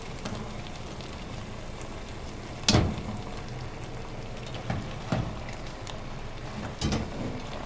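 Chicken, vegetables and spaghetti sizzling in a pan as they are tossed and mixed, a steady crackling hiss. A spatula knocks against the pan a few times, loudest about three seconds in.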